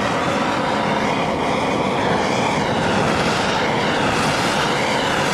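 Gas blowtorch flame running with a steady roar, heating the motorcycle crankcase so the worn crankshaft bush can be knocked out.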